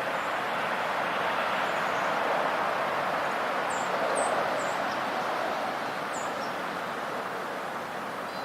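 Steady outdoor background noise, an even rushing hiss, with a few short high chirps from small birds around the middle.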